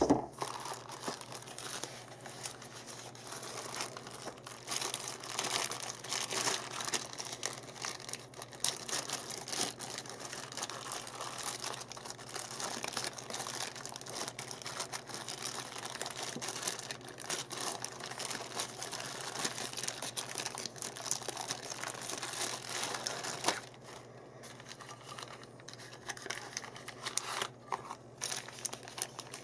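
Continuous crinkling and rustling of packaging being handled, with brief pauses near the end.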